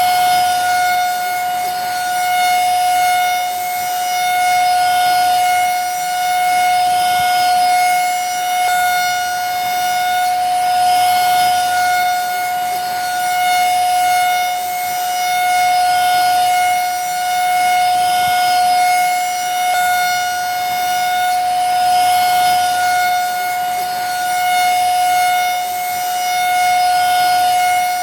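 Vacuum cleaner running steadily: a high, even motor whine over a rushing hiss, swelling and easing slightly in loudness about every two seconds.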